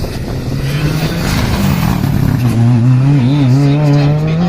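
Rally car engine under hard acceleration. Its note climbs, drops sharply about halfway through, then climbs again as the car gets louder. Wind buffets the microphone throughout.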